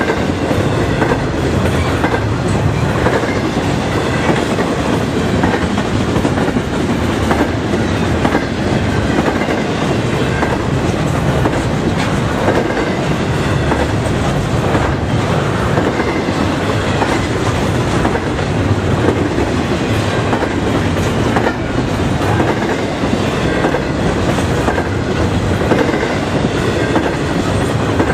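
Double-stack intermodal train's well cars rolling past: a loud, steady rumble of steel wheels on rail, with repeated clicks as the wheels cross rail joints.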